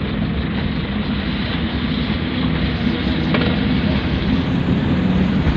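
Pick-up dump truck's engine running steadily.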